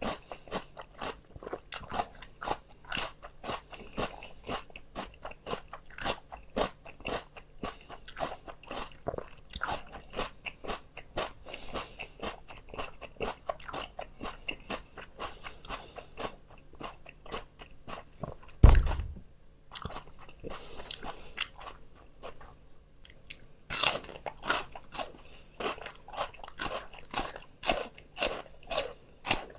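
Close-up chewing of crisp raw vegetables: rapid, continuous crunching. About two-thirds of the way in there is a single loud low thump, the loudest sound, followed by a few quieter seconds before loud crisp crunches start again.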